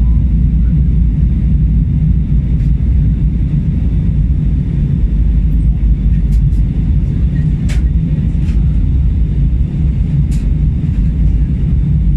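Steady low rumble of an Airbus A321 cabin in flight: engine and airflow noise, with a few faint clicks.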